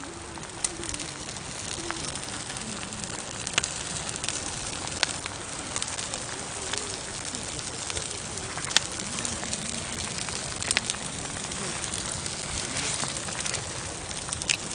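Campfire burning with a steady hiss and irregular sharp crackles and pops from the burning wood.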